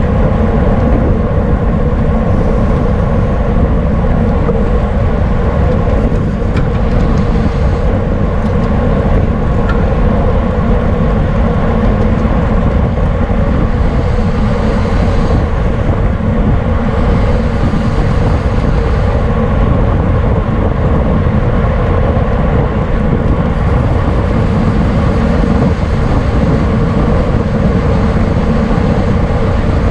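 Steady, loud wind rush over an onboard camera microphone on a racing bicycle at speed.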